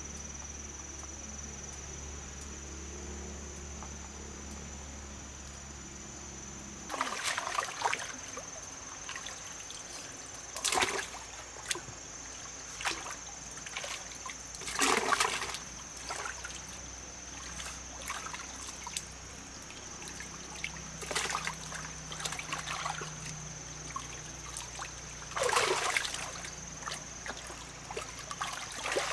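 Water splashing and trickling in irregular bursts. A low steady motor hum runs underneath and cuts off about seven seconds in.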